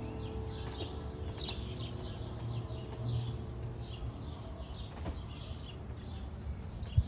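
Small birds chirping, many short high chirps repeating quickly, over a low steady rumble. A single sharp knock near the end.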